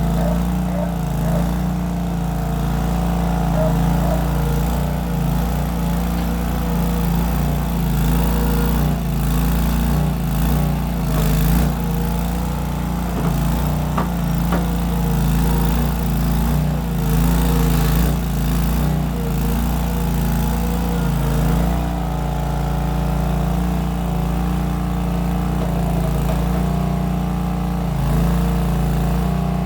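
Case 1816 skid steer's engine running steadily through small round mufflers, its note shifting a little under changing load. A few short clanks come through around the middle.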